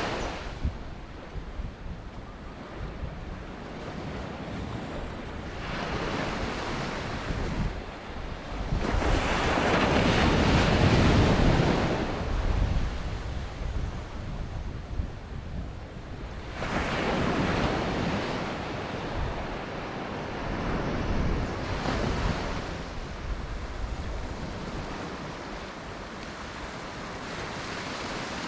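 Ocean waves breaking and washing up on a beach, the surf swelling and fading every few seconds, with wind buffeting the microphone.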